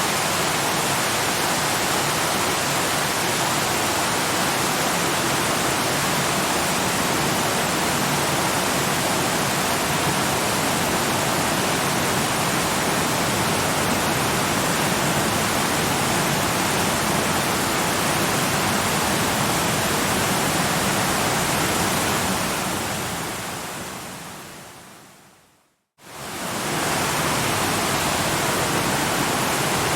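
Steady rushing of a waterfall, an even hiss spread across all pitches. Near the end it fades away to silence over about four seconds, then comes straight back at full level, as at the seam where a looped recording restarts.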